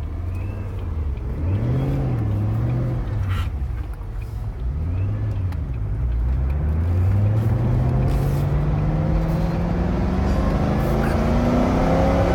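Ford GT's supercharged 5.4-litre V8, heard from inside the cabin: its pitch rises and falls a few times at low speed, then from about halfway climbs steadily as the car accelerates.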